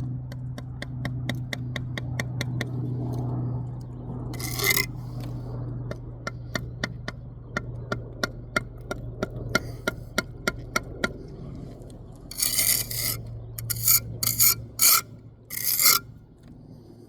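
Bricklayer's steel trowel working mortar on brick: a long run of quick light taps, about three a second, then several louder scrapes near the end, over a steady low hum.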